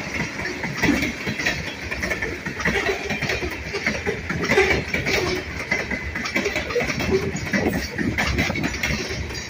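Freight cars (covered hoppers and tank cars) rolling past close by: a steady rumble of steel wheels on rail, with irregular clanks and knocks running through it.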